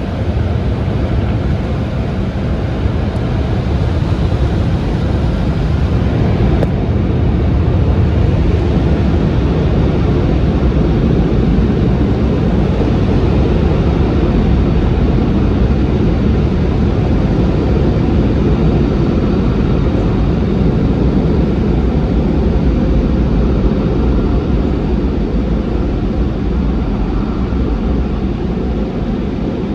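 Car wash tunnel equipment running: a loud, steady rushing noise with no break, heaviest in the low end, its highest hiss dropping away about seven seconds in.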